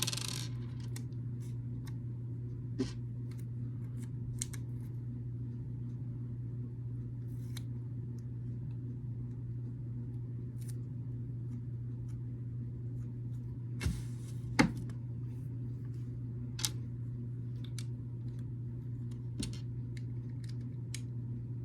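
Scattered small plastic clicks and taps of building bricks being handled and pressed together, one every second or few, over a steady low hum.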